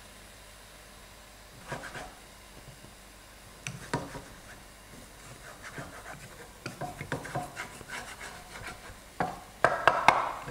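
Spatula scraping and tapping against a frying pan as egg is scrambled beside stir-fried vegetables. A few scattered strokes at first, then quicker, louder stirring near the end.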